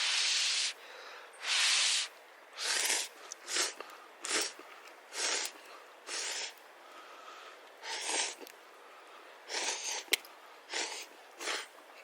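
Air puffed into a campfire in short breathy blows, about one a second with uneven gaps, as if to fan the flames; a sharp crack sounds near the end.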